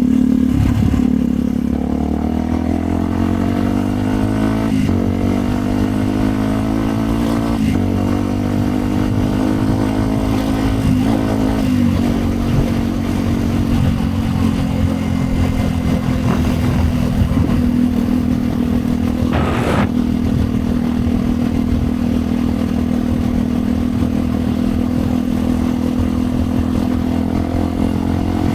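Yamaha WR 125 X's single-cylinder four-stroke engine through a Yoshimura exhaust, on the move: it rises in pitch with short breaks at three gear changes, then holds a steady cruising note. There is one sharp click about twenty seconds in.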